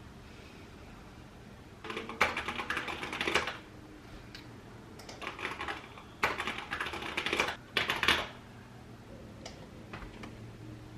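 Typing on a computer keyboard in several quick bursts of rapid key clicks, each a second or two long, with short pauses between.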